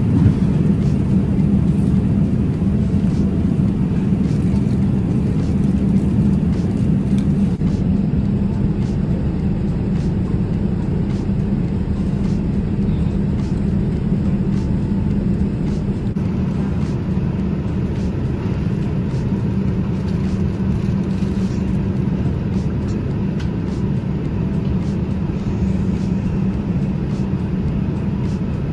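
Steady low rumble and drone of a jet airliner's cabin in cruise flight.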